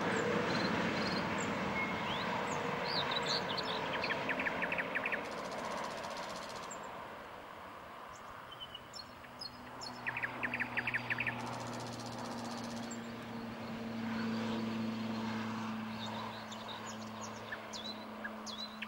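Birds chirping and singing, with short quick trills, over a low rumble that fades over the first few seconds. A steady low hum sets in about halfway through.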